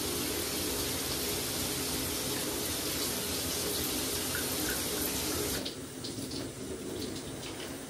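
Water running steadily with an even hiss. A little over halfway through it changes abruptly to quieter running water with a few light clicks.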